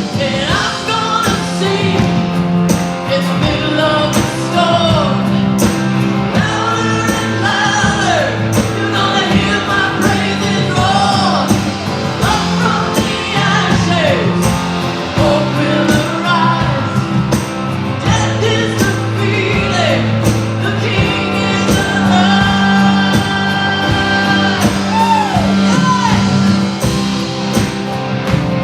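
Live church worship band playing a rock-style song, with a lead singer over a steady drum beat and sustained bass notes.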